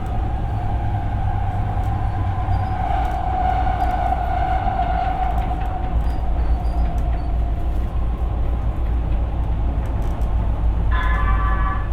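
Siemens P2000 light-rail car running, heard from inside: a low rumble of wheels on rail with a traction-motor whine that sinks slightly in pitch and fades out about halfway through as the train slows. Near the end, a chime sounds on the onboard PA, leading into a station announcement.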